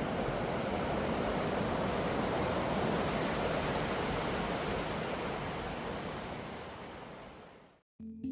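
Steady rushing water noise from a waterfall, fading out over the last couple of seconds; music starts just at the end.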